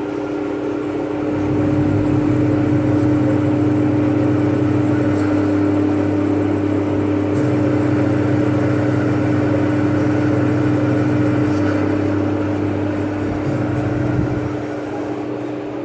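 CNC lathe running a program: a steady motor hum, joined about a second and a half in by a deeper drone that shifts once mid-way and drops out near the end, as the axes move through circular interpolation.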